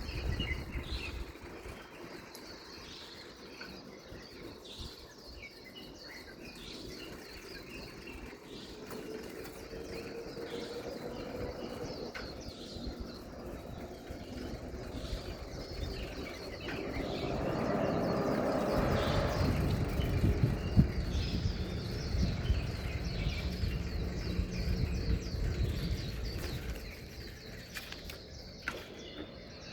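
Birds chirping and calling over and over. A low rumble swells in the middle and fades away after about ten seconds.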